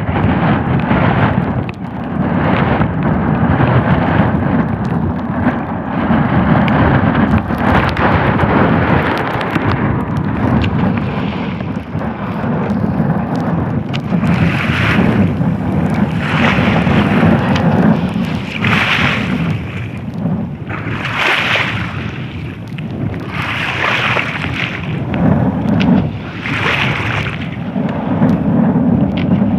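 Strong wind buffeting the microphone: a loud, gusting low rumble. From about halfway through, short hissing surges recur every two to three seconds.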